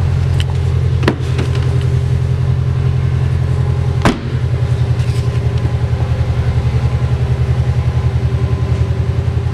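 Subaru Impreza WRX's 2-litre turbocharged flat-four idling steadily through a Blitz Nür-spec back box, with an even pulsing beat. Two sharp clicks, about a second in and about four seconds in.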